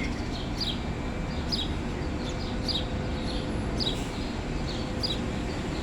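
A bird repeating a short, high, falling chirp about once a second, over a steady low background rumble.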